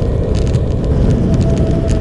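Motorcycle engine running steadily under way, with wind rushing over the microphone in brief gusts.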